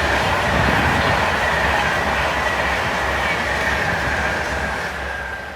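Train passing: a loud rush of wheel and rail noise with a high whine that slowly falls in pitch, fading over the last second.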